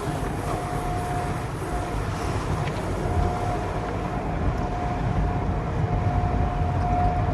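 Automatic car wash machinery running over the car, heard from inside the cabin. There is a steady rumble of water spray and spinning brushes, with a thin steady tone that comes and goes.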